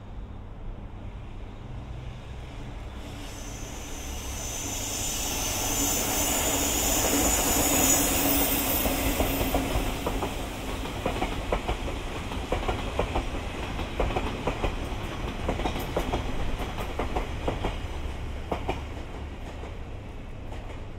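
EF65 electric locomotive towing unpowered Odakyu 8000-series commuter cars passes by. The noise builds to its loudest about eight seconds in, with a high hiss. The towed cars' wheels then clack over the rail joints in a long series of clicks that fades near the end.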